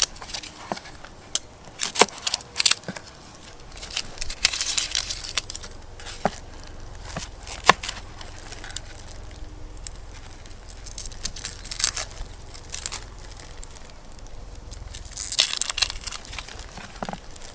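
A knife cutting an onion into small pieces: irregular sharp taps, with crackly rustling twice, once a few seconds in and again near the end.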